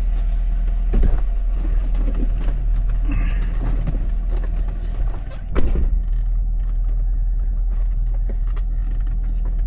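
Ford F350's 6.7-litre turbo-diesel running steadily under load, a deep continuous drone, as the truck tows a camper trailer slowly uphill. Two sharp knocks come through, one about a second in and one a little past halfway, with light rattles.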